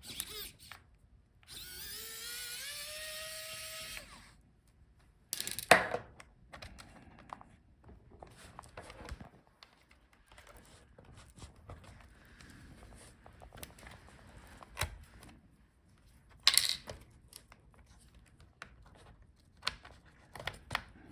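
A small electric screwdriver spins up with a rising whine and runs for about two and a half seconds, backing out a laptop screw. Then come scattered light clicks and taps of small parts being handled, with a few sharper clicks around six and seventeen seconds in.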